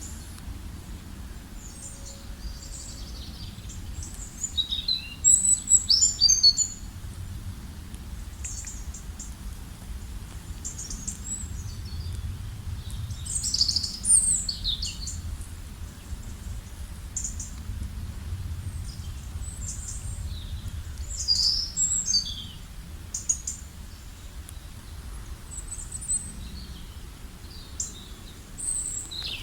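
Songbirds chirping and trilling in short, high calls throughout, with louder bursts of song now and then, over a steady low rumble.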